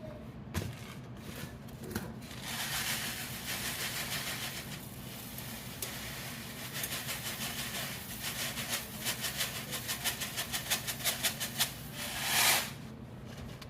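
Dry rice poured from its box into a pot of boiling water: a steady hiss, then a fast rattle of grains from about halfway that ends in a louder rush near the end.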